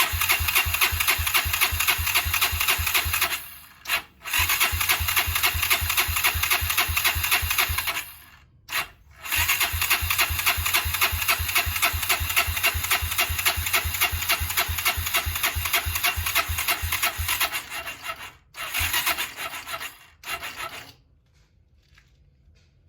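Honda GB250's single-cylinder engine being turned over on its electric starter, cranking with a fast, even pulse in four bursts, the third about nine seconds long, without settling into running, then stopping about two seconds before the end.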